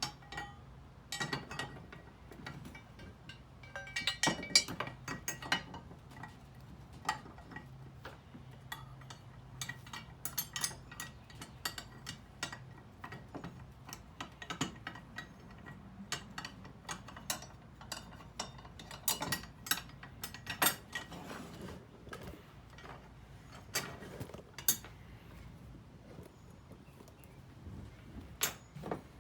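Irregular metallic clicks and clinks of metal parts and hand tools being handled, some strikes ringing briefly, as in hand work on a restored can crusher.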